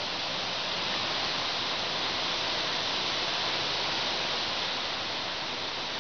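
Rain falling with wind gusting through the trees: a steady rushing hiss that swells a little through the middle and eases slightly near the end.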